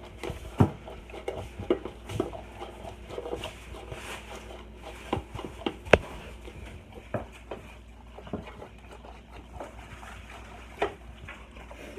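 Dog licking and lapping at dog ice cream: irregular wet smacks and clicks of the tongue, with a louder smack about six seconds in.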